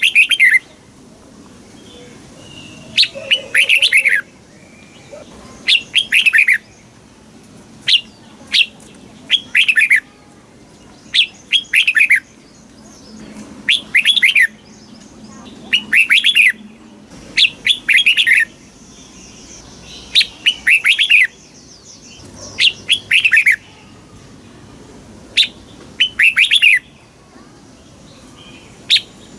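Red-whiskered bulbul singing loud, short bursts of quick warbling notes, one phrase about every two seconds. This is the song played to caged bulbuls to train them or get them excited.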